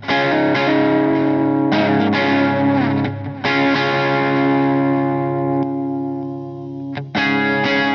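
Electric guitar played through a Donner Dumbal Drive light-gain overdrive pedal, slightly distorted. Full chords are struck and left ringing, a new one every second and a half or so. A longer chord then fades out, and quick, short chords follow near the end.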